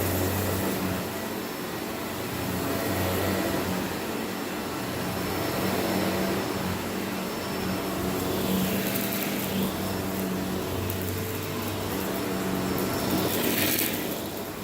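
Vacuum cleaner running and sucking up crunchy dirt, its steady motor hum swelling and easing as it is pushed back and forth, with a brief sharper crackle of debris near the end.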